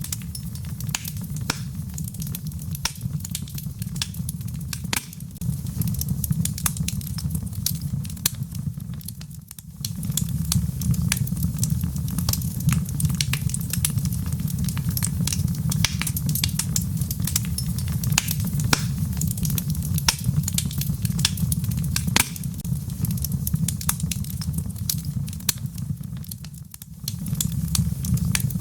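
Wood fire crackling, with many irregular sharp pops and snaps over a steady low rumble of the burning logs; the rumble drops out briefly twice. Rain patters in the background.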